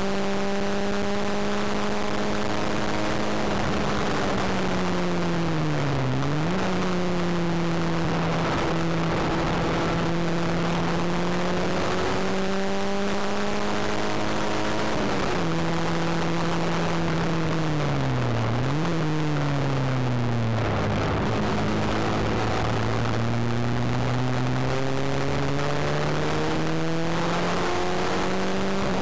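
Ford Fiesta XR2i 1.8 16-valve four-cylinder engine heard from inside the cabin under hard track driving: it holds high revs, falls away as the car slows, and its pitch jumps back up twice in quick blips, then climbs steadily as it accelerates hard near the end. Road and wind noise run underneath.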